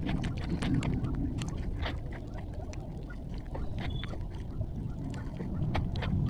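Close-miked ASMR crunching: irregular sharp crackles and snaps over a low rumble, thicker about a second in and again near the end.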